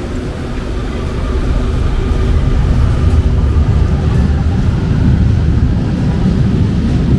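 Light-rail train running on the track, a steady low rumble with a faint whine, growing louder over the first two or three seconds and then holding level.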